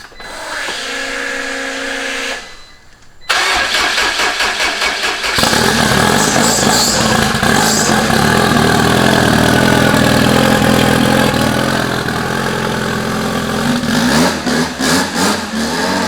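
A steady hum for about two seconds. Then a starter cranks a Honda B-series four-cylinder in an Integra for about two seconds. The engine catches about five seconds in and runs loud, and its pitch rises and falls a few times near the end.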